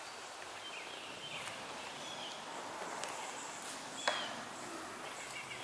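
Outdoor ambience with birds chirping now and then, and a single sharp knock about four seconds in.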